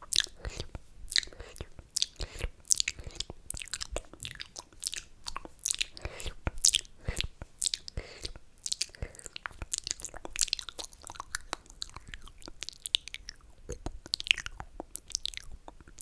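Close-miked ASMR mouth sounds: wet slurping, smacks and tongue clicks, coming densely and irregularly with no steady rhythm.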